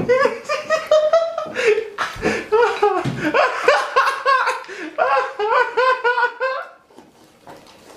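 A person laughing hard and helplessly in a long run of high-pitched bursts, which die down near the end.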